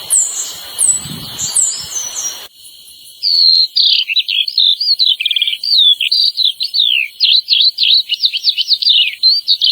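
Purple-throated euphonia (fim-fim) calling: repeated high, falling notes about twice a second over a steady high insect-like buzz. Then, after a cut about 2.5 s in, a fast, continuous jumble of varied twittering song notes.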